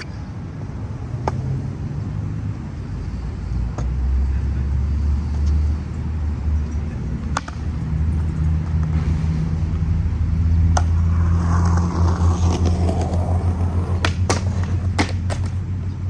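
Skateboard wheels rolling on concrete: a steady low rumble that grows louder about four seconds in and turns uneven and pulsing later on, with sharp clacks from the board, several of them close together near the end.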